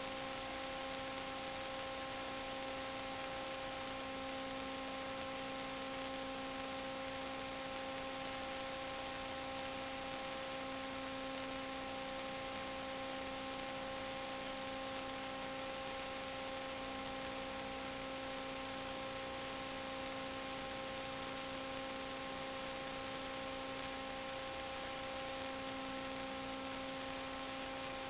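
Steady electrical hum with several fixed tones over a constant hiss, unchanging throughout; no other sound stands out.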